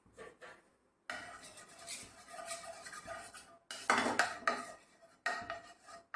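Metal kitchen utensils clinking and scraping against a metal pan and dishes, with a ringing clatter followed by a few sharper, louder knocks about four and five and a half seconds in.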